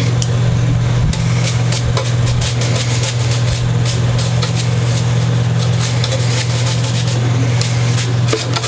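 Steady low hum, even throughout, with scattered light clicks and taps over it.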